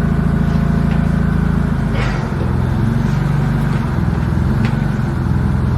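Engine running steadily with a low, even drone; its note shifts down about two seconds in.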